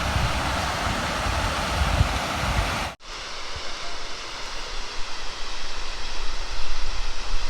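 Waterfall rushing as a steady wash of water noise. It breaks off sharply about three seconds in and comes back softer.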